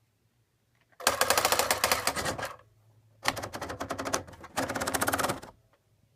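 Rapid mechanical clicking in two bursts, the first about a second and a half long and the second about two seconds long, over a faint low hum.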